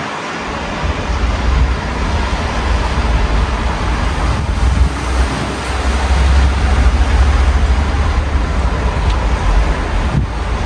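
Steady hiss of rain heard through an open window, with a deep rumble that builds from about a second in, swells through the middle and drops away near the end.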